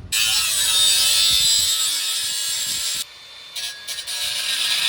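Reciprocating saw cutting through an exhaust muffler pipe. It runs for about three seconds, stops briefly, then starts cutting again.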